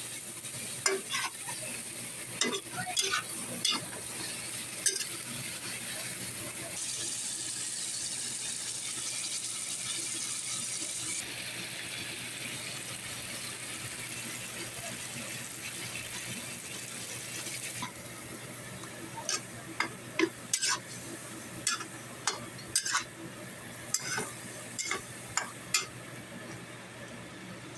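Chicken frying in a pan with a steady sizzle, while a utensil stirs it and clicks and scrapes against the pan. The clicks come in a run at the start and again in the second half.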